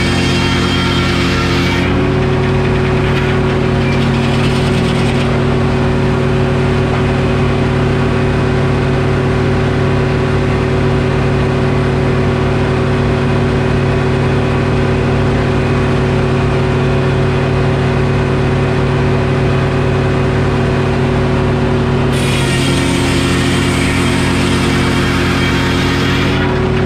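Detroit Diesel engine driving a Frick circular sawmill, running steadily throughout. For the first two seconds, and again from about 22 s until just before the end, a harsher hissing sound joins it and the engine note drops slightly as the blade cuts through oak.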